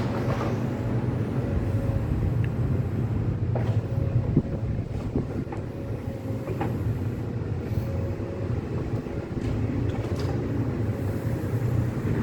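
Diesel engine of a heavy demolition excavator running steadily, with a few sharp knocks and clatters of demolition work scattered through it.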